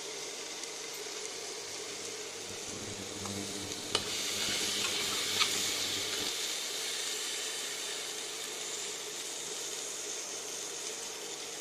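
Chickpeas, potato pieces and spices sizzling in oil in an open pressure cooker, a steady hiss that swells a little about four seconds in, with a couple of light clicks.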